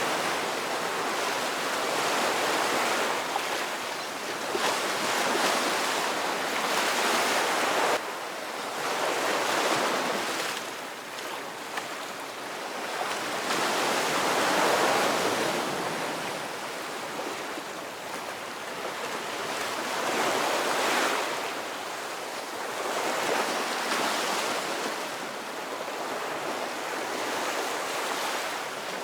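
Ocean surf: waves washing in and drawing back as a steady hiss that swells and fades every few seconds.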